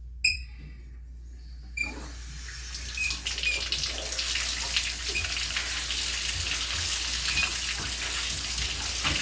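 Two short clicks with a brief metallic ping, then about two seconds in the water comes on and the new Delta Intuition shower head sprays steadily, run as a test for leaks at the threaded shower arm.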